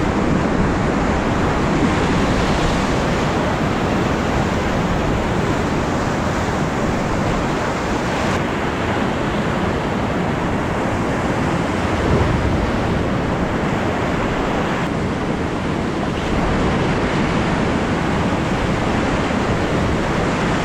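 Loud, steady rush of whitewater in a river rapid.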